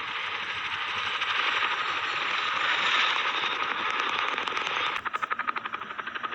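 Large military helicopter: a steady rush of turbine and rotor noise, then about five seconds in an abrupt change to a fast, even rotor-blade chop.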